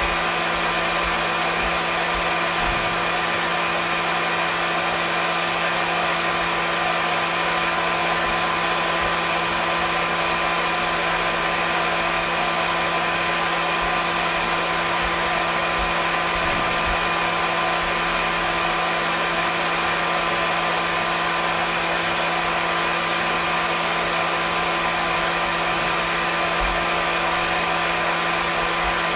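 Hair dryer running continuously: a steady, even rush of air with a constant motor hum underneath, unchanging throughout.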